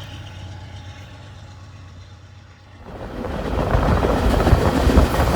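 A vehicle's low steady hum, then about halfway through a loud rumbling rush of road and wind noise that builds and holds as the car speeds up.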